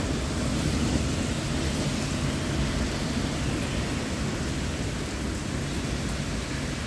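Rolling thunder rumbling low and slowly dying away over steady rain.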